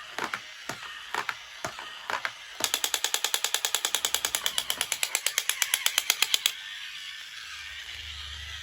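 A few scattered clicks, then a fast, even run of clicks, about ten a second, lasting about four seconds and stopping abruptly; toy or packaging handling leaves faint hiss after.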